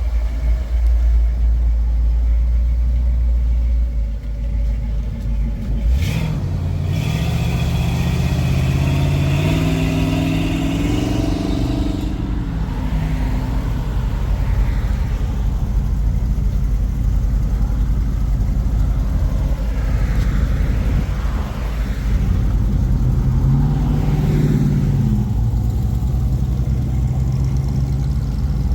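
Car engines as cars drive away: a low engine rumble, then one car accelerating with rising, stepping engine pitch about a quarter of the way in, and another pulling away with a shorter rise near the end.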